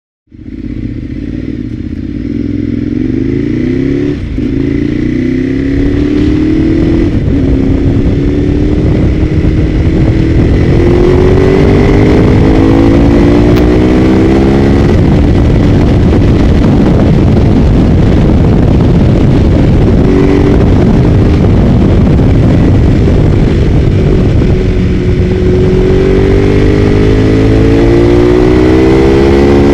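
Ducati 848's 90-degree L-twin engine at full throttle on a race track, starting abruptly. Its pitch climbs and drops back again and again as it accelerates up through the gears.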